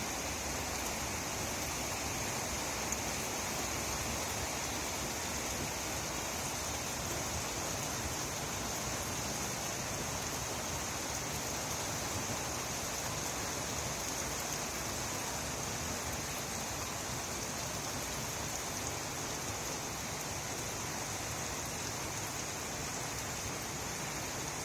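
Steady rain shower falling, an even hiss of rain that holds the same level throughout.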